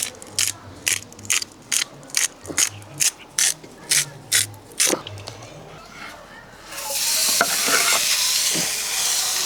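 About a dozen sharp knocks, roughly two a second, then, about seven seconds in, food hitting a hot pan and sizzling loudly and steadily.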